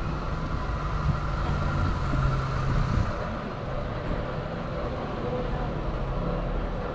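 A car engine idling with a steady low hum, over the general noise of a busy street.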